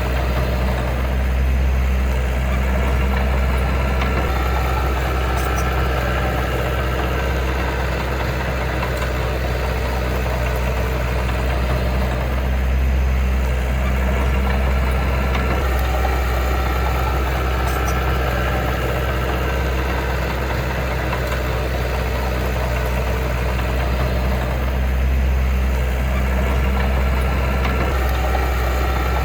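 Heavy machine's diesel engine running steadily at an even, unchanging pitch, with a strong low drone.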